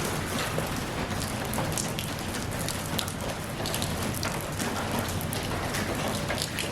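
Steady rain falling, a continuous hiss with many close, distinct drops pattering on a surface.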